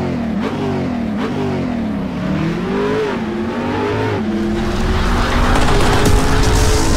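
Car engine revving, its pitch swinging up and down several times, then holding a higher steady note that grows louder as the car accelerates.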